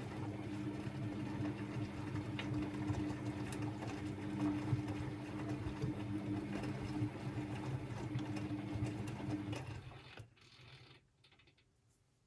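Constructa Energy 1000s washing machine running with a steady motor hum and whir, which stops about ten seconds in.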